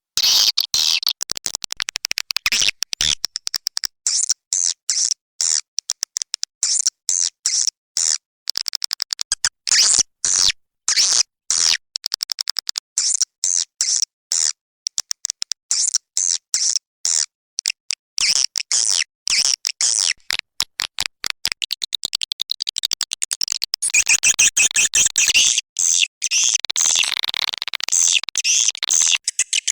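Swiftlet call lure audio: rapid trains of high twittering chirps and clicks with short gaps, turning into denser, continuous chattering over the last few seconds.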